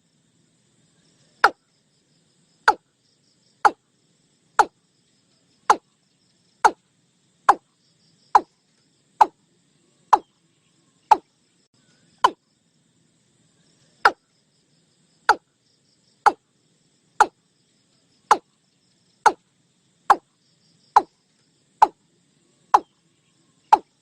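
Watercock (Gallicrex cinerea) calling: a long series of short, sharp notes, each dropping quickly in pitch, repeated roughly once a second.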